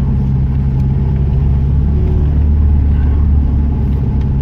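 Car engine running steadily while driving, heard from inside the cabin as an even low drone.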